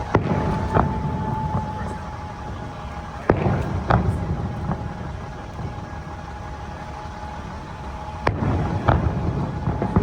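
Fireworks bursting: sharp bangs coming roughly in pairs, a little under a second apart, three times, with low rumbling in between.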